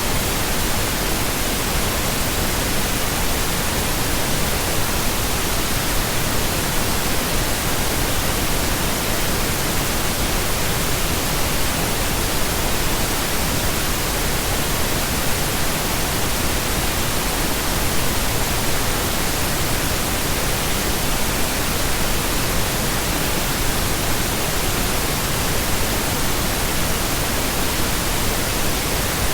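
Continuous, steady pink noise: an even hiss spread across all pitches, with no changes or breaks.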